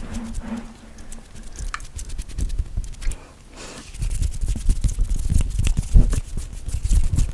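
Fingers fluttering rapidly on and around a microphone: a fast, uneven patter of soft thumps and brushing against the mic. It eases off briefly around the middle, then turns busier and louder.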